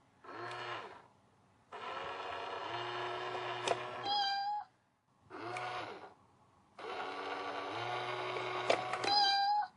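Electronic cat toy set off by a button press, playing a recorded cat meow and a longer jingle-like sound. It plays twice in the same way.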